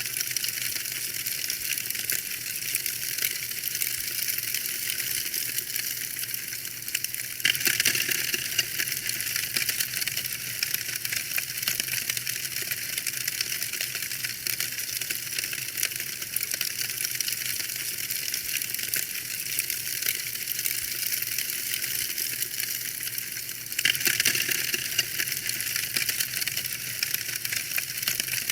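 Wood fire burning in a fireplace, crackling steadily with a dense run of small pops and snaps. The crackle gets abruptly louder and brighter about a third of the way in, and again near the end.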